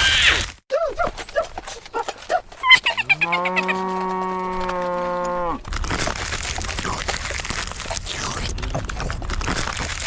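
A long, low, moo-like animal call starting about three seconds in. It rises into a steady held pitch for about two and a half seconds, then cuts off suddenly. A steady noisy rumble follows.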